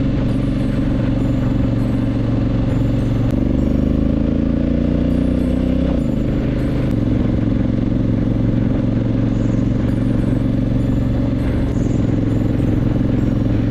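Honda Africa Twin CRF1100L's parallel-twin engine running while riding, its note rising for a few seconds and then dropping suddenly about halfway through.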